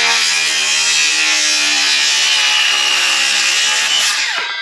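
Electric circular saw cutting across a sawmill-cut pine 2x6 against a speed square guide, running steadily under load, then winding down with a falling pitch near the end as the trigger is released.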